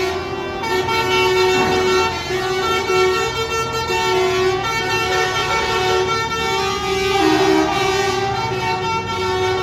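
Several truck horns blowing at once, long held tones overlapping, with trucks passing.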